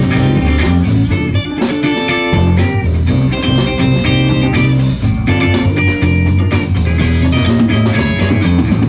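Live rock band playing an instrumental passage: electric lead guitar over bass guitar and drum kit.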